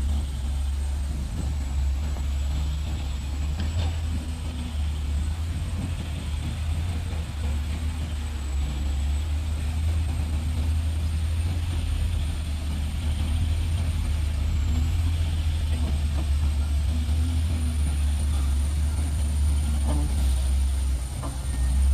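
Heavy diesel engines of a loaded truck and a pushing bulldozer running hard under load, a deep steady rumble, as the truck is shoved through deep mud.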